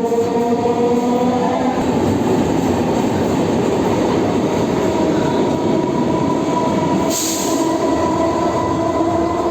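Local passenger train running, heard from on board: a dense, steady running noise of the coach with a sustained tone over it, and a short hiss about seven seconds in.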